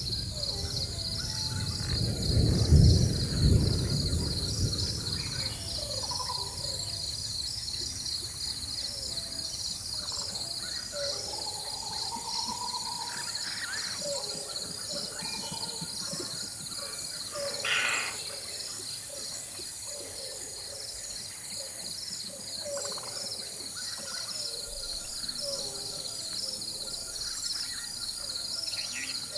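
Rainforest ambience: a steady, pulsing high chorus of insects with scattered bird calls throughout, and a low rumble of distant thunder about two to four seconds in, the loudest moment.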